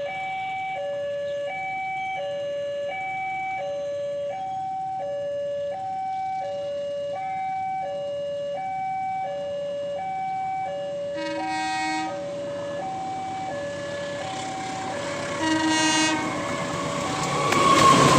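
Railway level-crossing warning alarm sounding a steady two-tone alternating signal, about one high-low cycle a second. An approaching train's horn sounds twice, about a second apart in the second half, and the train's rumble rises near the end as it nears the crossing.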